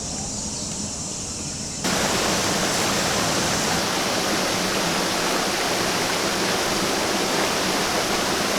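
Rushing water of a hillside stream, a steady loud hiss that starts abruptly about two seconds in, after a quieter stretch of outdoor background.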